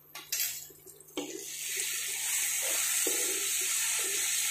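Onion, tomato and capsicum masala with freshly added turmeric and Kashmiri red chilli powder sizzling in oil in a nonstick kadai as it is stirred with a wooden spatula. The steady sizzle sets in about a second in, with a few soft strokes of the spatula over it.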